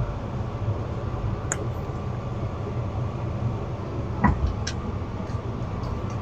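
Wind buffeting the microphone in a steady low rumble, with a few light clicks or taps, one about a second and a half in and two more around four seconds in.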